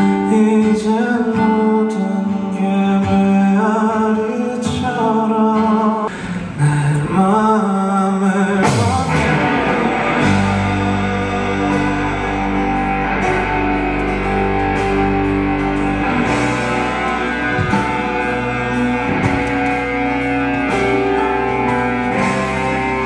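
Live band music: a voice sings over guitar. About nine to ten seconds in, the full band with bass and electric guitar comes in, holding sustained chords.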